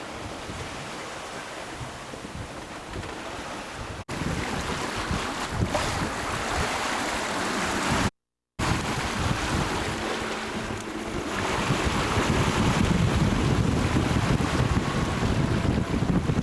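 Wind buffeting the microphone over the rush of waves around a sailboat running before an 8 to 10 foot following sea. The sound cuts out for half a second about eight seconds in and grows louder in the last few seconds.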